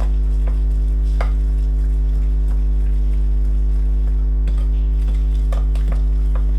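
A loud steady electrical mains hum, with a few sparse clicks and taps of a utensil in a mixing bowl of batter.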